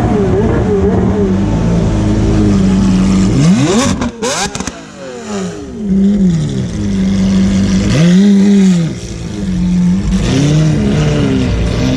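Sports car engines revving in repeated blips, the pitch rising and falling, with one steep rising sweep about four seconds in.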